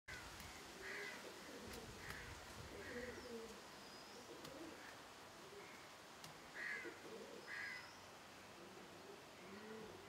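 Birds calling faintly: repeated low arching notes, sharper calls every second or so at times, and a few thin high whistles.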